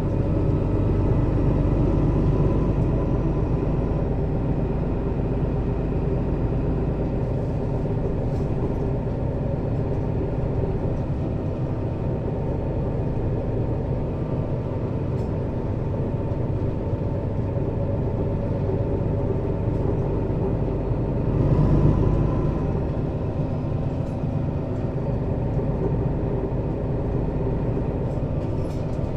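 Mercedes-Benz Citaro city bus's diesel engine running steadily as the bus drives, heard from inside above the engine compartment, with a brief swell in engine noise about 22 seconds in.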